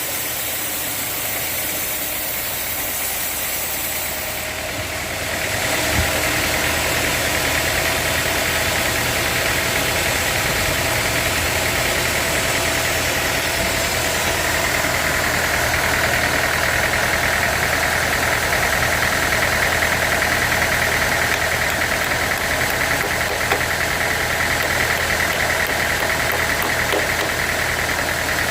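Sawmill saw and its drive running through a large redwood log: a steady mechanical noise that grows louder about five seconds in, with a high whine building from about fifteen seconds in.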